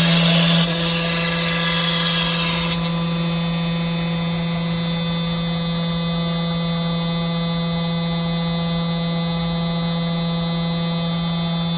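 CNC router spindle and machine running with a steady hum and whine. For the first few seconds it cuts into wood with a rough cutting noise, then the cutting stops about three seconds in and the steady machine tone carries on.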